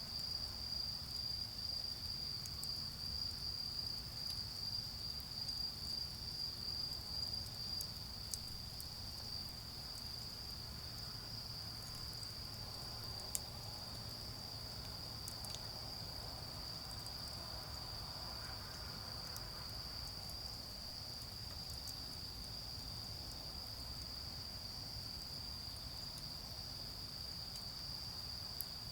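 Autumn crickets calling in one continuous, steady high-pitched trill, with a few faint isolated crackles from a charcoal fire.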